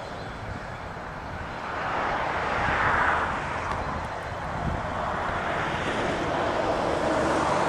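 Road vehicle noise: tyre and engine rush that swells as a vehicle goes by about two to three seconds in, eases, then builds again near the end.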